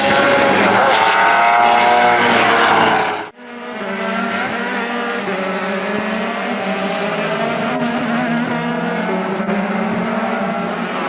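Dallara F312 Formula 3 race car engines running at high revs. A loud, close stretch cuts off abruptly about three seconds in, then several engine notes carry on, a little quieter and wavering in pitch.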